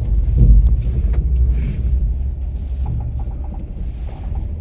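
Jeep's engine and drivetrain rumbling at low speed as it lurches through deep ruts, loudest about half a second in, with a few light rattles a little after the three-second mark.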